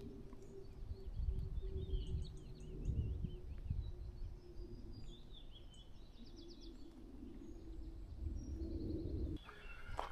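Small songbirds chirping and trilling, with quick high repeated notes, over a low rumble of wind on the microphone. A faint steady hum runs underneath and cuts off suddenly near the end.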